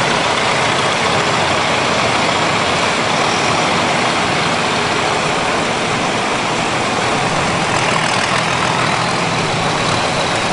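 Antique farm tractor engines running steadily.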